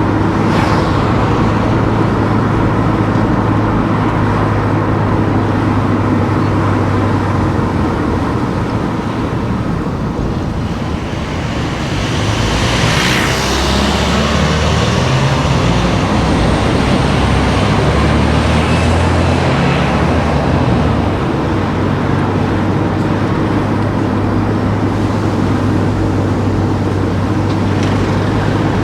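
Car engine and tyre noise while driving on town streets: a steady engine hum that eases off about ten seconds in, then changes pitch and picks up again as the car accelerates. A brief rushing swell about thirteen seconds in, like a vehicle passing.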